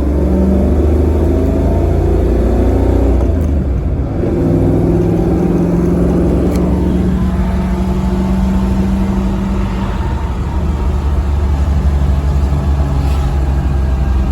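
Chevy V8 engine in a Range Rover pulling under load while towing a heavy trailer, its exhaust going through a Walker Quiet Flow muffler; a steady low engine note that dips briefly about four seconds in, then carries on.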